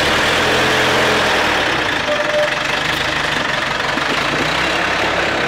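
A truck engine running steadily at idle.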